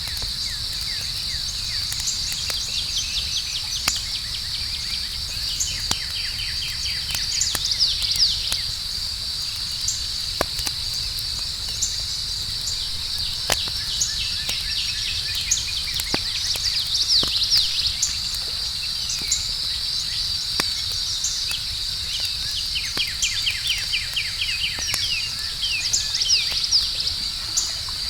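Campfire crackling with scattered sharp pops over a steady, high-pitched insect chorus, with short runs of bird chirps coming and going.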